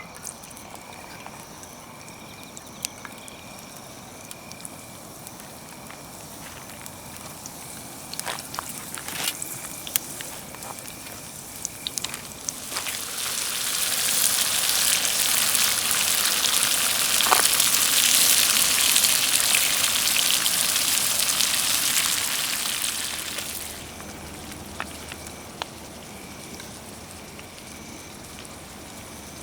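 Campfire crackling with sharp pops, and a loud, steady sizzle of hot oil in a cast-iron skillet that swells up about a third of the way in, holds for about ten seconds, then drops away.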